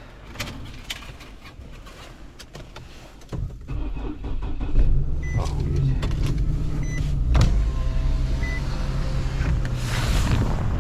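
A few clicks, then the low rumble of a truck engine comes in suddenly about a third of the way through and runs on steadily, with a short electronic beep sounding three times about a second and a half apart and a sharp knock in the middle.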